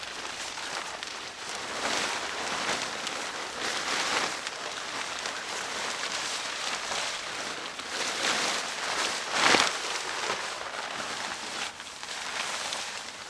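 Rain falling steadily, with a brief louder swell about nine and a half seconds in.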